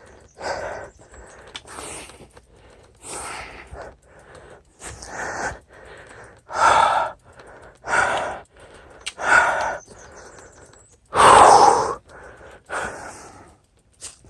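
A man breathing hard, about nine heavy breaths roughly a second and a half apart, with one louder gasp late on: winded from the exertion of walking his mountain bike up the trail in the heat.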